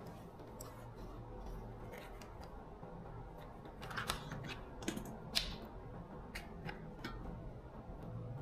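Scattered sharp clicks and light knocks of small parts and tools being handled, over a low steady hum. The clicks come thickest about four to five and a half seconds in.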